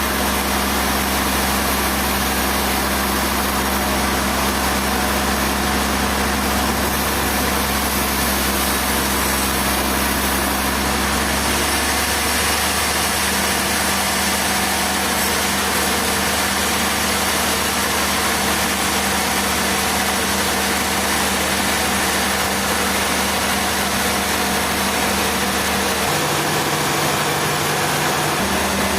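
An engine running steadily, its pitch shifting slightly about twelve seconds in and again briefly near the end.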